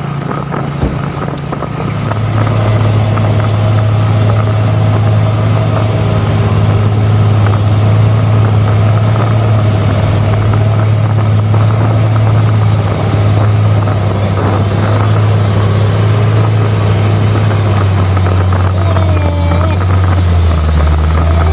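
Mitsubishi Fuso truck's diesel engine running hard as a loud, steady low drone. The drone steps down in pitch twice over the last few seconds as the engine slows.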